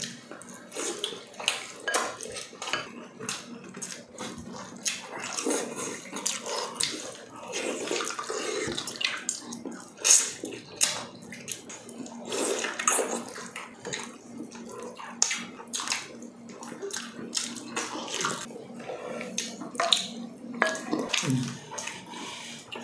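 Wet, close-up chewing, lip-smacking and slurping of two people eating soft braised pork hock with their hands: many irregular sticky clicks and squelches.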